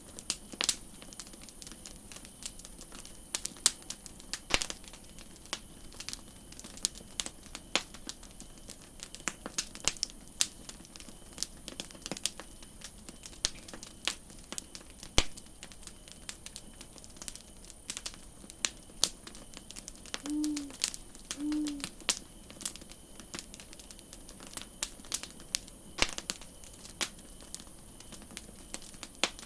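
Campfire of burning wood crackling: irregular sharp pops and snaps of varying strength over a steady hiss. Near the middle, two short low calls sound about a second apart.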